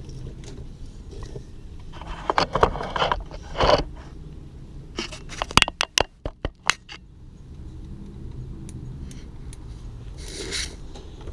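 Scraping and a quick run of sharp clicks as the lower radiator hose and its fitting are worked back onto the radiator of a 2001 Mercedes S430, with another scrape near the end.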